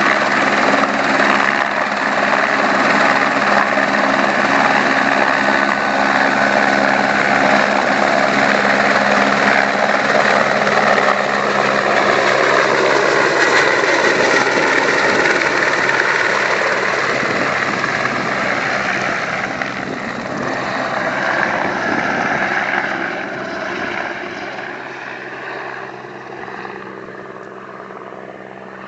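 Helicopter rotor and turbine running loudly and steadily, then fading over the last several seconds as it moves away.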